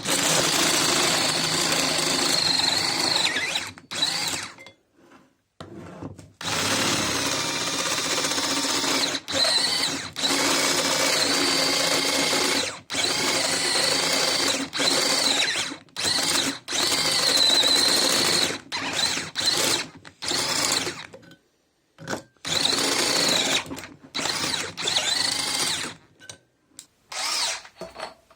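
Old Makita cordless hammer drill, refitted with an airsoft LiPo battery, run on test after the rebuild: the motor whines in stretches of several seconds, its pitch rising and falling with trigger pressure, stopping and starting again, with quicker short bursts near the end.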